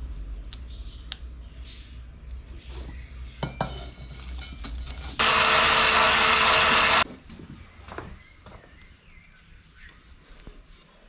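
Scattered small clicks and knocks of tools being handled, then a loud, dense hissing run of a power tool for about two seconds that starts and stops abruptly.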